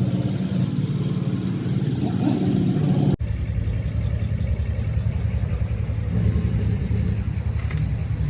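A machine running steadily with a low hum, which changes abruptly about three seconds in.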